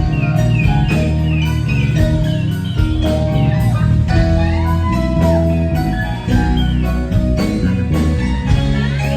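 Live rock band playing: an electric guitar lead with sustained notes that slide up and down over bass and drums.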